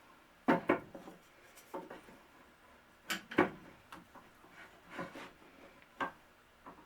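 Knocks and clatters of wood and tools being handled at a workbench: a pair of sharp knocks about half a second in, another pair around three seconds in, and lighter knocks between.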